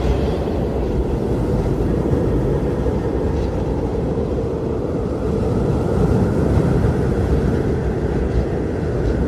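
Strong blizzard wind blowing steadily, a deep rushing sound with a howling note that swells slightly in the middle.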